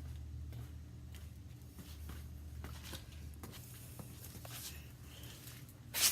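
Scattered small clicks and handling noises over a low steady hum, with one sharper click near the end.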